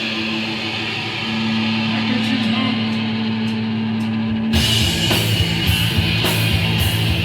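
Live hardcore punk band: a held, distorted guitar and bass drone rings on, then about four and a half seconds in the full band crashes in with drums as a song starts.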